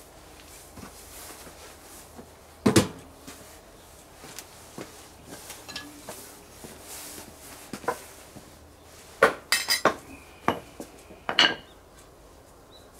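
Metal cookware and utensils clinking and clattering: a few separate knocks, then a quick run of clatters about nine to ten seconds in, with one brief metallic ring.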